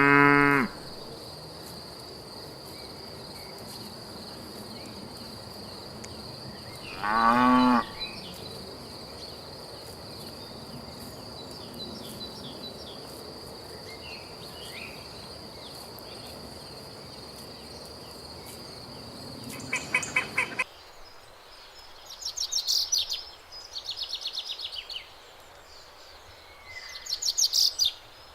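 Cattle mooing: a long moo tails off just after the start, and a second moo comes about seven seconds in, over a steady high insect drone. About twenty seconds in, the drone stops suddenly and a run of short, pulsed, high-pitched calls follows in four groups.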